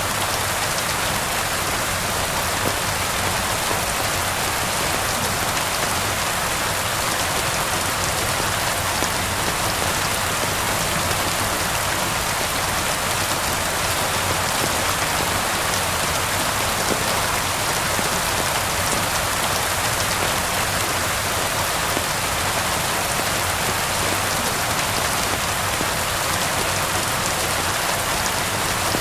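Steady rain falling, an even unbroken hiss of drops that neither swells nor fades.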